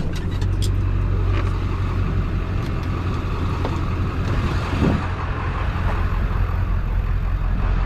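Pickup truck engine idling with a steady low hum, with a few light clicks near the start.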